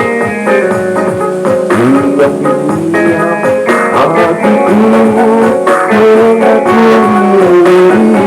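Band music with guitar, a melody line that slides between notes, and a steady drum beat.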